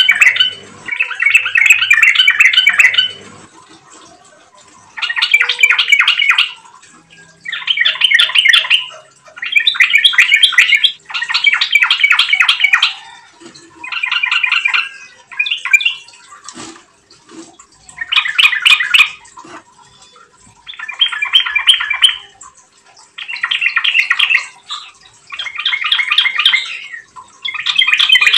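Yellow-vented bulbul (trucukan) singing loud, rapid chattering phrases of a second or two each, repeated over and over with short pauses between them.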